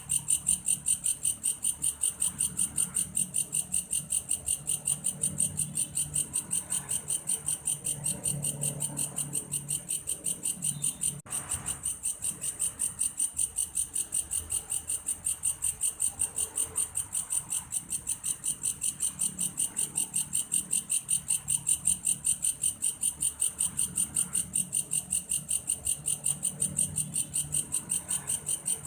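Belalang kayu grasshopper stridulating: a steady, high-pitched, cricket-like pulsing call at about three pulses a second, with a brief break about eleven seconds in. A faint low murmur comes and goes underneath.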